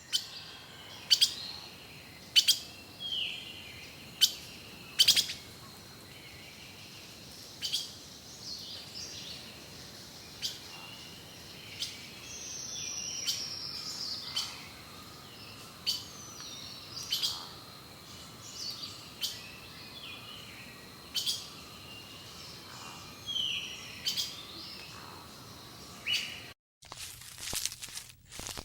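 Birds calling outdoors: short, sharp chirps every second or two, some with quick falling or rising notes, over a faint steady high-pitched tone. Near the end the sound breaks off briefly and is replaced by a run of quick clicks.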